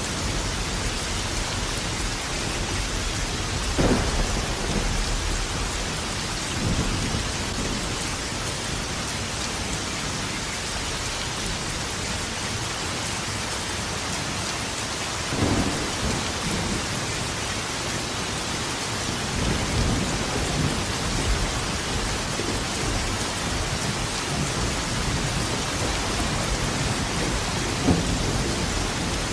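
Steady heavy rain with thunder rolling in. A few sharp thunder cracks, about 4 s, 15 s and 28 s in, each trailing into a low rumble.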